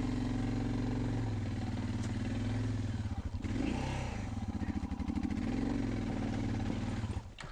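Motorcycle engine running under throttle, its pitch dipping and climbing again about halfway through, then falling away abruptly near the end.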